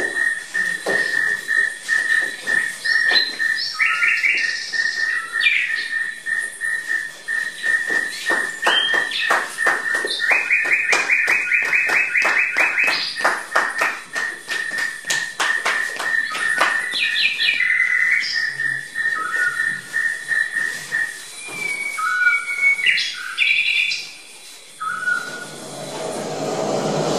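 Whistling and chirping calls over a steady high whistling tone, with quick runs of rapid chirps in the middle. A few seconds before the end, a broad rushing sound comes in.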